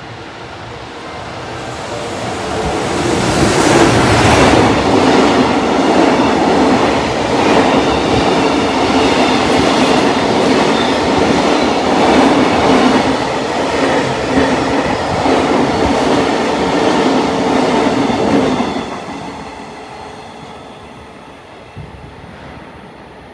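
EF210 electric locomotive hauling tank wagons running through a station at speed: the noise builds as the locomotive approaches, then a steady run of wheel clacks over rail joints as the tank cars roll past. About three-quarters of the way through it drops off sharply as the last car passes and fades away.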